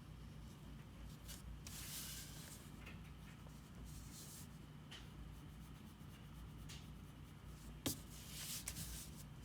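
A drawing tool scratching on paper in several short spells of strokes, with one sharp tap a little before the end.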